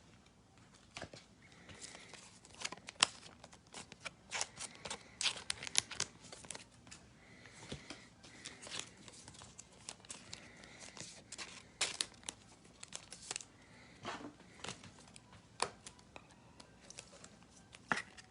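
Trading card pack wrappers and cards being handled: irregular crinkling and tearing of a foil pack wrapper, with scattered sharp ticks and crackles.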